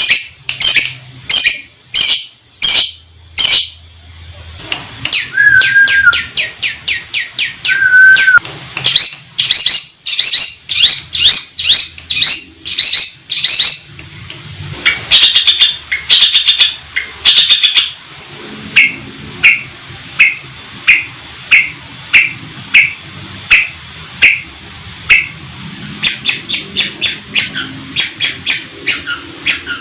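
Long-tailed shrike (cendet) singing loud runs of sharp, rapidly repeated chattering notes laced with mimicked canary and lovebird phrases, with two short whistles about six and eight seconds in. From about eighteen seconds in, the notes turn into slower, evenly spaced chips.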